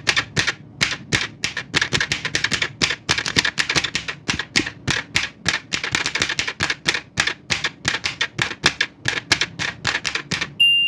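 Old manual typewriter being typed on quickly, a fast irregular run of sharp key strikes. Near the end the typing stops and the end-of-line bell rings once.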